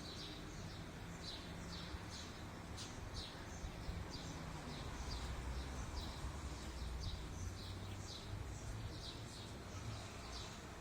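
Small birds chirping over and over in short, quick calls, about two or three a second, over a steady low rumble.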